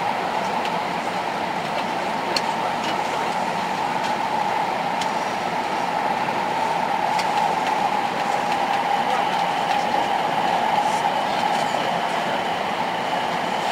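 Tohoku Shinkansen train running, a steady rushing noise with a few faint clicks now and then.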